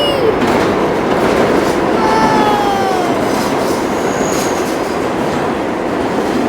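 R62 subway train on the 3 line rolling along the track with a loud, steady rumble and wheel clatter. About two seconds in, a high tone slides downward.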